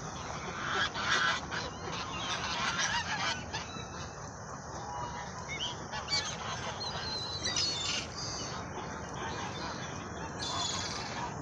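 A large flock of birds calling all at once, many short overlapping calls merging into a dense, continuous chorus.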